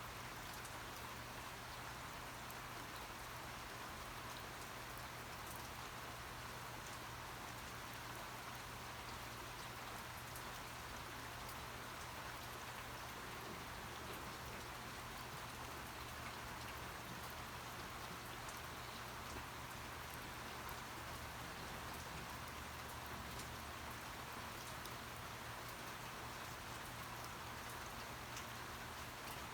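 Steady rain falling, an even hiss of drops with scattered small ticks of single drops landing.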